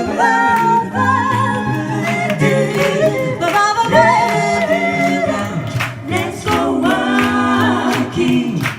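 A cappella vocal group singing layered harmonies over a low sung bass line, with a steady beat of sharp percussive hits.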